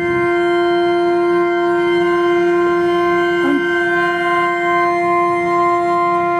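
A single pipe-organ pipe sounding one steady held note with no break. It is a cipher: the pipe keeps speaking on its own because the relay underneath is stuck.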